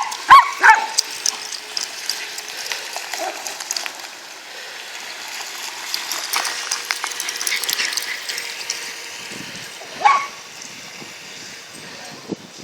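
Dogs barking: two or three short, sharp barks at the start and one more about ten seconds in, with a steady hiss between them.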